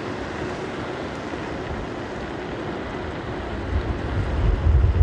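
Steady rush of strong wind over rough surf, with gusts starting to buffet the microphone about three and a half seconds in.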